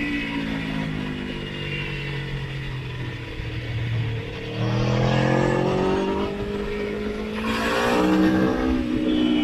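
Motorcycle engine under way: the revs fall for about four seconds as it slows, then climb steadily, break off briefly with a rush of wind noise, and pick up again at a higher pitch.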